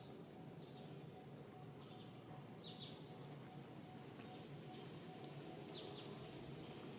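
Faint short, high chirping calls, about one a second at irregular intervals, over a steady low background hum.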